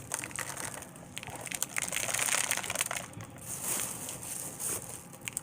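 Loose birdseed rustling and crackling as it is handled and worked onto a peanut-butter-coated pine cone: a dense, irregular run of small crackles and clicks.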